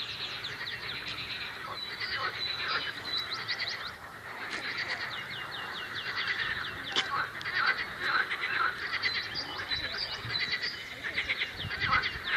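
Songbirds singing in rapid repeated trills of short, high notes, with frogs croaking along with them in a spring chorus.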